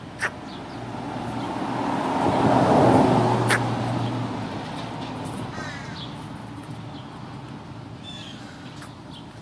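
American crow cawing in short, sharp calls, once just after the start and again about three and a half seconds in, over a vehicle passing that swells and fades within the first five seconds. Small bird chirps follow near the end.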